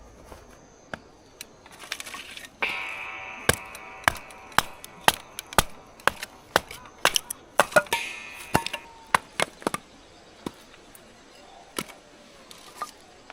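Repeated sharp chopping knocks, a blade striking wood in an irregular run, thickest in the middle of the stretch and thinning out toward the end. A drawn-out pitched sound comes in twice beneath the knocks, once early and again in the middle.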